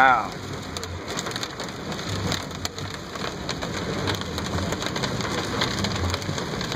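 Heavy thunderstorm rain beating on a car's roof and windshield, heard from inside the cabin, a steady patter with many sharp individual drop hits.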